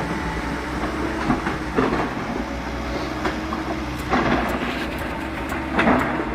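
Excavator engine running steadily, with several metallic clanks and knocks from the machine working, the loudest about four and six seconds in.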